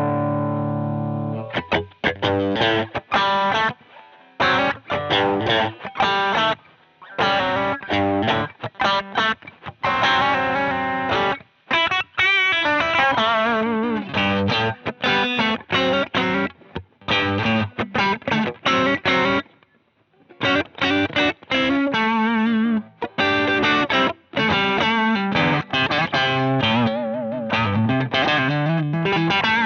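Distorted electric guitar played through a Jeds Peds Onosecond high-gain drive pedal: a held chord at the start, then riffs and chords broken by short pauses between phrases.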